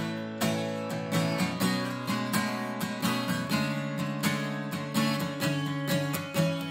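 Acoustic guitar playing a song's instrumental intro: chords strummed in a steady, even rhythm.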